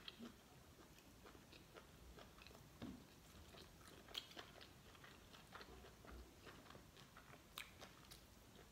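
Faint chewing by a person eating, with soft mouth clicks every so often and a couple of sharper clicks about four seconds in and again near the end.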